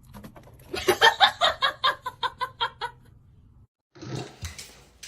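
A person laughing: a quick run of about a dozen 'ha' pulses lasting about two seconds, tailing off, then a brief break and fainter sounds near the end.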